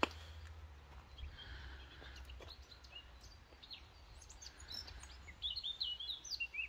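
Small birds chirping outdoors, scattered at first, then a quick run of short high chirps near the end, over a low steady rumble. A sharp click comes at the very start.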